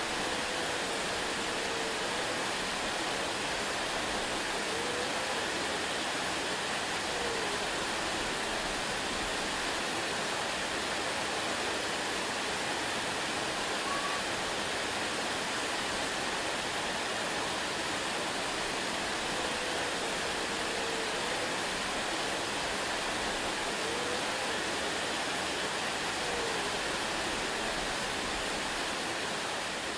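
Waterfall: a steady, even rush of falling water, with a few faint short pitched calls now and then.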